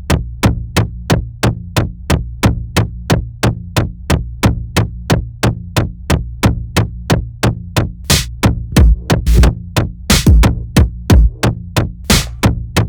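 Experimental electronic music: a fast, even pulse of sharp drum-machine clicks, about four a second, over a steady low bass drone. Bursts of harsh noise join the pulse from about two-thirds of the way in.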